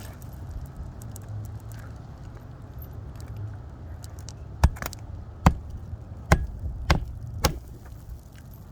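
Claw hammer driving a roofing nail into an asphalt shingle: five sharp blows at a steady pace, starting about halfway through, over a steady low rumble.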